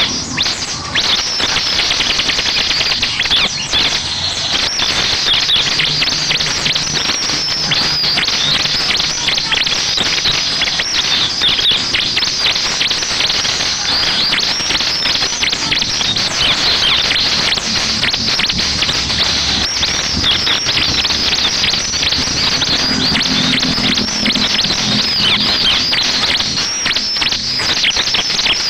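Ciblek (bar-winged prinia) song: a continuous, rapid, high-pitched chattering of chirps and trills, used as a lure recording to set other ciblek singing.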